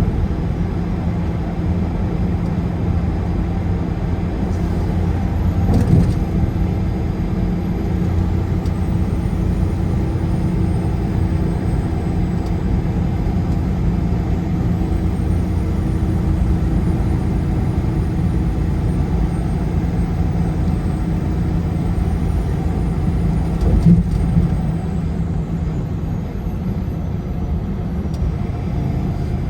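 A car cruising on a highway: steady road and engine rumble, with two short bumps, about six seconds in and again near the end.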